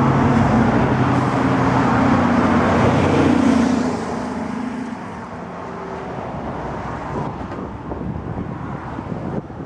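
A motor vehicle's engine running close by, loud and steady for about the first four seconds, then fading away and leaving quieter traffic noise.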